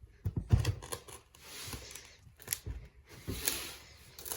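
A wooden floor plank being pried and worked loose with a hammer: scraping wood with several sharp knocks and clatters.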